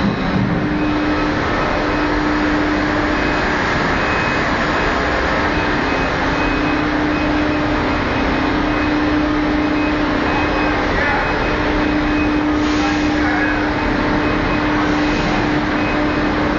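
Scania 530 truck's V8 diesel engine running at a steady speed, with a constant drone over even engine noise.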